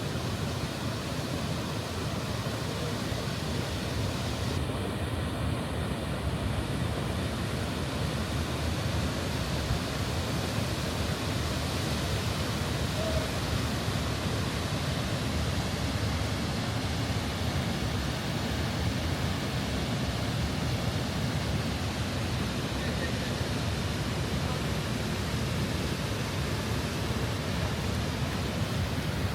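Steady, unbroken rush of a large waterfall, High Force on the River Tees.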